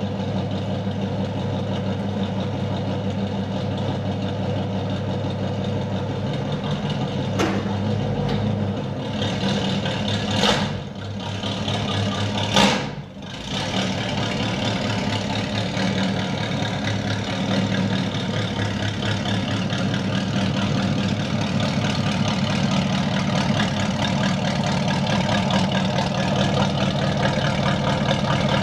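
1975 Chevrolet El Camino Laguna's engine running through a Flowmaster exhaust at a steady idle, with three quick throttle blips between about seven and thirteen seconds in before it settles back to idle.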